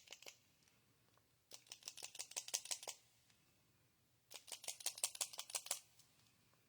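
Two bursts of quick, light clicking, each about a second and a half long, from a Wink of Stella glitter brush pen being handled and worked.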